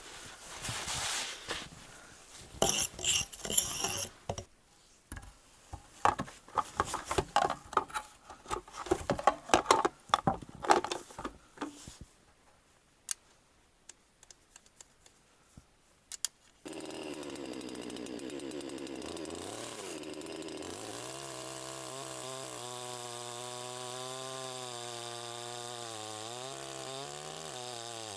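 Irregular knocks and clatter of wood being handled. After a few quiet seconds, a chainsaw starts up abruptly and runs steadily, its pitch shifting up and down a little.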